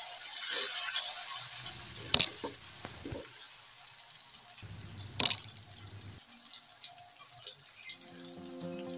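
Ground spice paste sizzling in hot oil in a metal wok as it is sautéed, the hiss slowly fading. A metal spatula knocks sharply against the wok twice, about two seconds and five seconds in.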